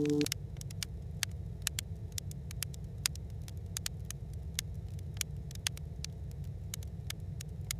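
Wood stove fire crackling: a low steady rumble with irregular sharp pops and snaps.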